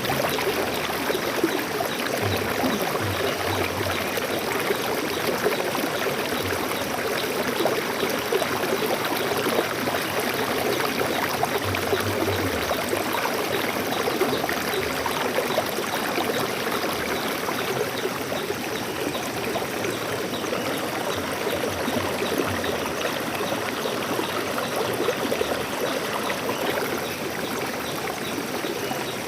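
A stream of water running steadily over rocks, a continuous splashing and gurgling rush.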